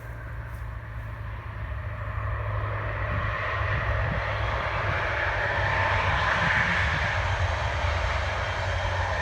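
Diesel locomotive engine running, building up over the first few seconds and then holding steady over a constant low hum.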